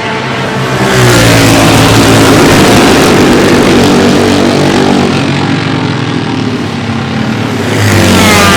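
Two-stroke racing motorcycle engine running and revving: it gets loud about a second in with its pitch falling away, then rises again near the end.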